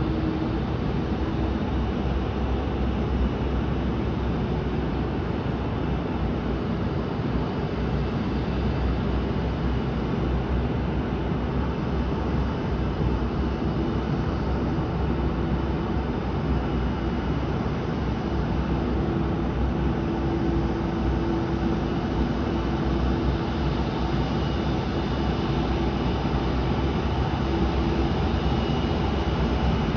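Boeing 737 on the ramp during pushback: steady aircraft engine noise with a low hum that grows stronger past the middle and a faint high whine near the end.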